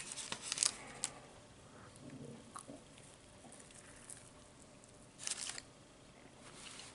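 A man biting into and chewing a sourdough chicken club sandwich close to the microphone: short crackly clicks in bunches at the start and again about five seconds in, with a few single ticks between.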